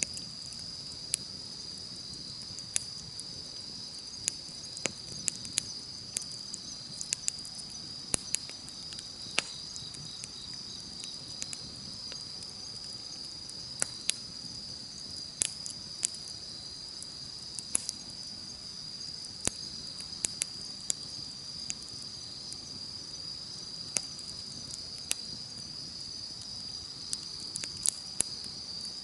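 Wood campfire crackling with sharp, irregular pops, over a steady high-pitched chorus of insects.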